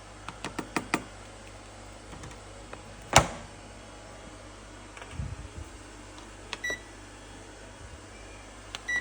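A run of light clicks, one loud sharp click, then short high electronic beeps over a low steady hum.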